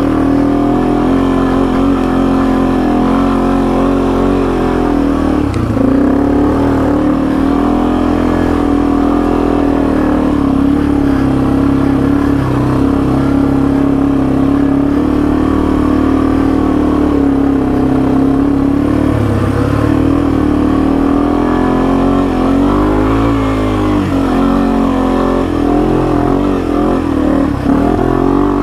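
Yamaha TW200's single-cylinder four-stroke engine running at a steady throttle while the motorcycle is ridden, with a few brief dips and rises in engine speed.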